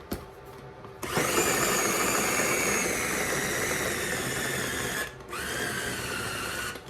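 Food processor motor blending minced chicken breast with seasonings and cornstarch. It starts about a second in and runs for about four seconds, its whine slowly dropping in pitch, stops briefly, then starts again.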